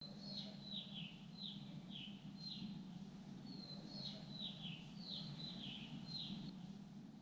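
Small birds chirping: a run of short, high chirps that each slide downward, coming about once or twice a second, over a steady low hum.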